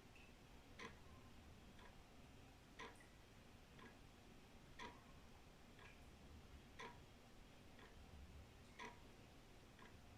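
Old wall clock ticking about once a second, a louder tick alternating with a softer tock, over faint steady background noise.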